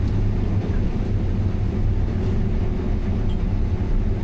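Combine harvester running steadily while harvesting corn: a constant low drone with no breaks.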